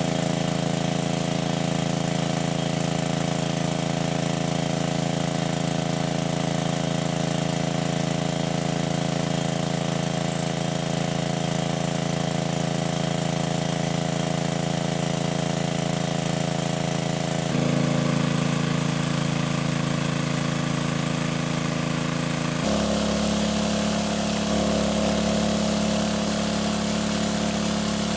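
A small engine running steadily at a constant speed. Its tone changes abruptly twice, about two-thirds of the way through and again near the end.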